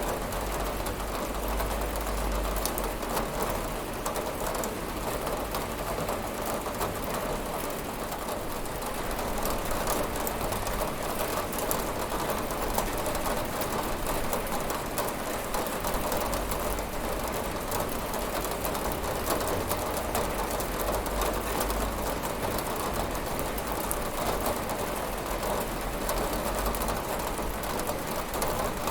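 Steady rain falling on a window, an even hiss of drops that holds at one level throughout.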